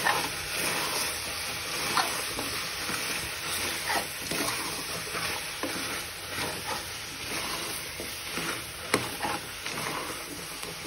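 Mutton frying in oil with freshly added chili powder and coriander powder in an open pressure cooker, sizzling steadily while a metal spoon stirs it, scraping and clicking against the pot every couple of seconds.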